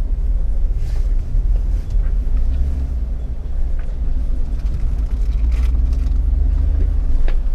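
Jeep Wrangler engine running with a low, steady rumble as it crawls over rocks, with a few scattered knocks and clicks, the sharpest one near the end.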